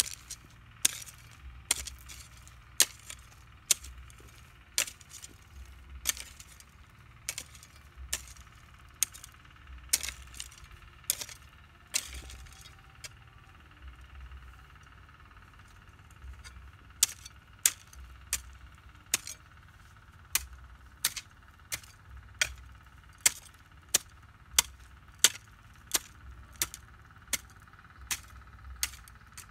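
Repeated sharp strikes of a hand tool, likely a hoe, chopping into the ground, about one and a half a second, with a pause of about three seconds near the middle. A faint steady high drone runs behind.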